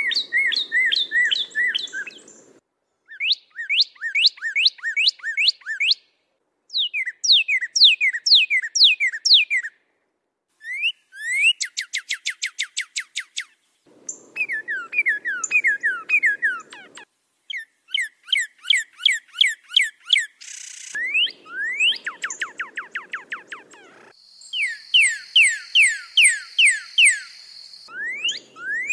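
Songbird singing in short phrases of quick down-slurred whistles, each phrase a run of six to ten notes with brief pauses between. About halfway through one phrase is a much faster trill. A low hiss of recording noise comes in with some of the phrases.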